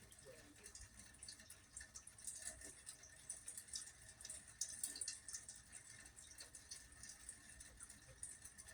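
Faint rain dripping: many small, irregular ticks of falling drops, with a faint steady high tone underneath.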